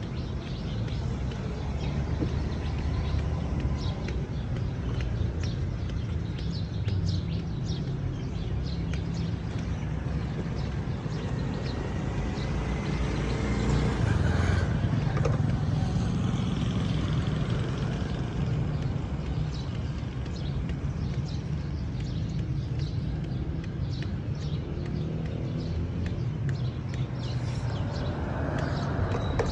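A car engine sound: a steady low rumble that swells slightly in loudness around the middle.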